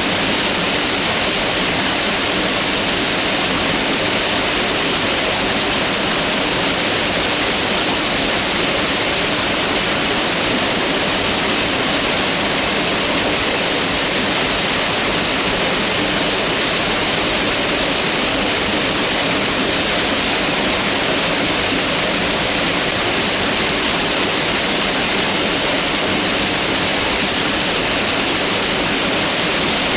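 Mountain river rushing: a steady, even roar of fast-flowing water over rocks, unchanging throughout.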